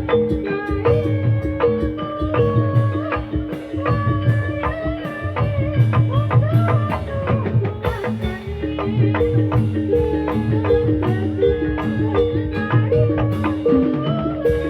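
Javanese gamelan music for a jathilan dance: metal-keyed gamelan instruments playing a repeating melody over regular low drum strokes, amplified through a sound system.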